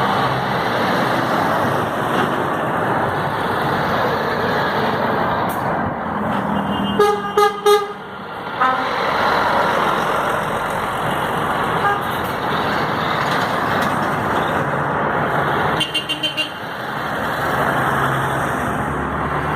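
Steady truck engine and road noise from a passing convoy, with truck horns tooting: a few blasts about seven seconds in, then a quick run of four short toots about sixteen seconds in.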